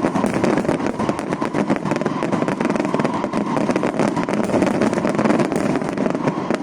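Fireworks crackling rapidly and continuously, a dense run of sharp pops with no break.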